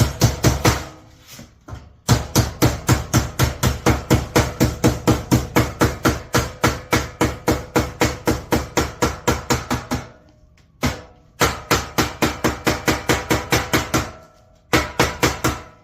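A hammer striking sheet metal in quick, even blows, about four a second, in long runs broken by short pauses at about ten and fourteen seconds in. This is the work of closing the seams of a fabricated sheet-metal duct transition.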